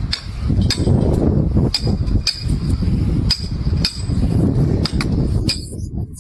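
Sharp metallic strikes, about a dozen at uneven intervals, each ringing briefly, over a steady low rumble of work noise.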